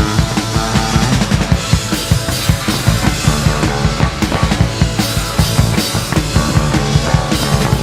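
Punk rock band playing live, with no singing: a drum kit keeps a fast, steady beat under the band.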